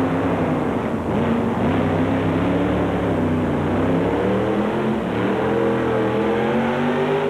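Mini rod pulling tractor's engine running flat out as it drags the weight-transfer sled down the track; its note sags a little in the first few seconds, then climbs steadily over the last few as the run nears its end.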